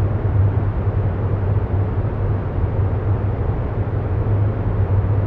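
Steady, deep rumbling background noise with a low hum, even and unchanging: a continuous ambient noise bed laid under the meditation.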